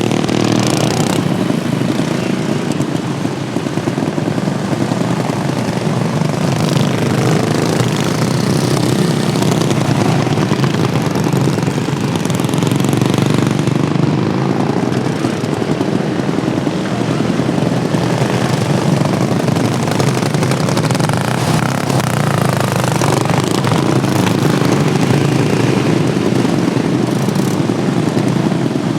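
Small engines of modified racing lawn mowers running hard together in a race, with pitch rising and falling as they go around the track.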